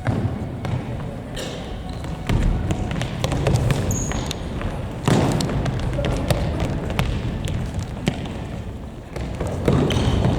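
Futsal match on a hard gym floor: the ball is kicked and bounces, giving repeated irregular sharp thuds over the general noise of play.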